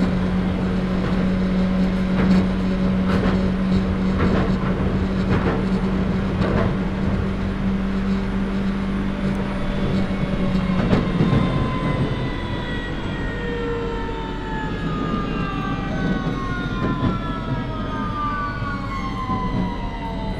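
Onboard a London Underground 2009 Stock train: wheels clicking over rail joints with a steady motor hum, then from about halfway through the electric traction motors' whine falls steadily in pitch as the train slows for the next station.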